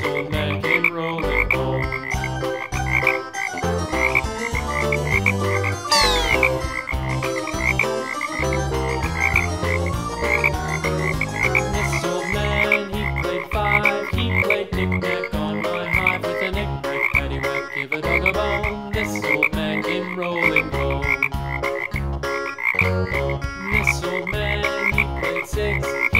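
Frog croaking, repeated about two to three times a second, laid over a rhythmic backing track, with a falling swoosh about six seconds in.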